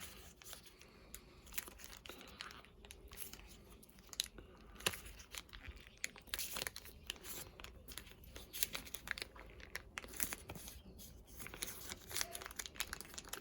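Faint scattered clicks, taps and rustling as small water pump parts and a seal are handled and pressed into place by hand.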